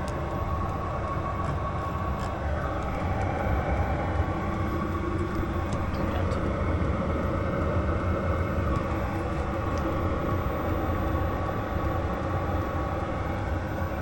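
Chinese 12 V diesel air heater running on power setting 2: a steady rumble of combustion and fan, heaviest low down, with a few faint ticks over it.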